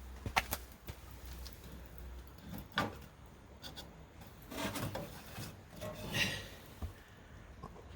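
Objects being handled: a series of irregular knocks and clacks with a few short scraping rubs, the clearest about half a second in, near three seconds, and around five and six seconds.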